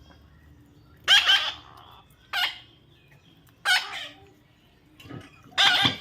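A baby parrot giving four loud, harsh squawks, spaced about a second or more apart.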